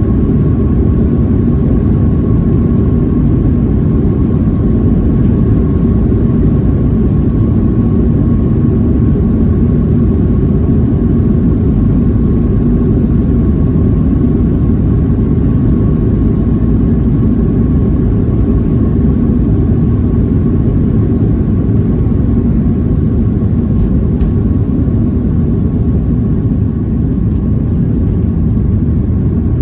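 Cabin noise inside a Boeing 737-700 with its CFM56-7B turbofan engines at takeoff power: a steady, loud roar with a constant tone sounding above it.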